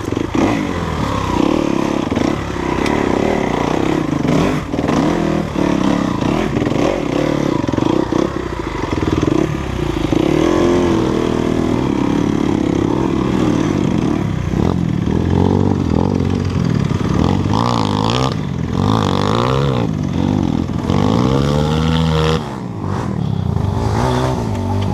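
Dirt bike engine running, its pitch rising and falling again and again as the throttle is worked, with scattered knocks and clatter.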